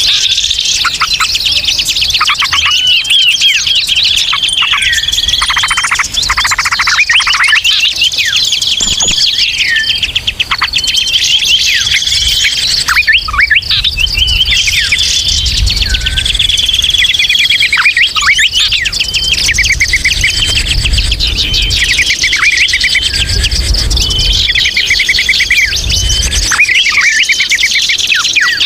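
Dense, unbroken chorus of many small songbirds chattering, trilling and chirping over one another, with rapid rattling trills and short whistled notes. It is a noisy 'ribut' bird-lure recording meant to draw in wild birds.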